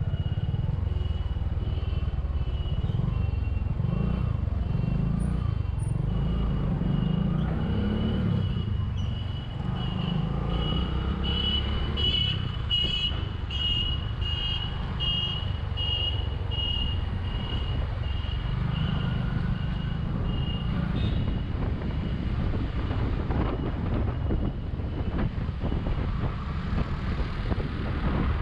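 Bajaj V15's 150 cc single-cylinder engine running on the move, with wind rushing over the microphone. A high-pitched beep repeats about twice a second until a little past two-thirds of the way through.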